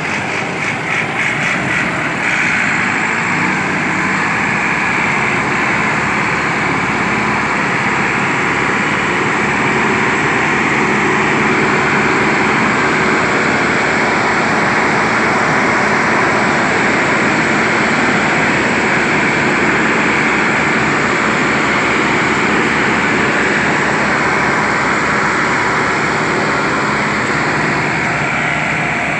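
Massey Ferguson 385 and 375 tractors' diesel engines working under load, pulling loaded trailers: a loud, steady engine noise with fast, even low pulses.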